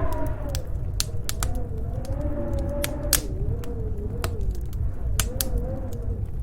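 Storm wind howling with a slowly wavering whistle over a low rumble, mixed with a crackling log fire that gives many sharp, irregular pops.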